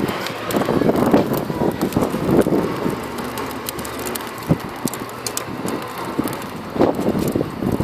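Wood fire burning in a fireplace, a rushing noise with irregular crackles and pops.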